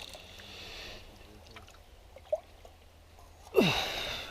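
A person's short breathy snort or exhale near the end, falling in pitch, over a quiet outdoor background.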